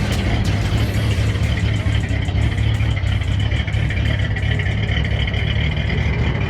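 A vehicle engine running steadily and loud, with a deep, even low end.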